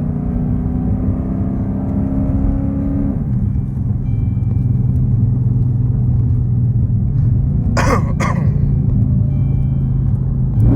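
Dodge Charger Super Bee's 392 HEMI V8 running steadily, its note dropping to a lower pitch about three seconds in. Two short knocks, close together, about eight seconds in.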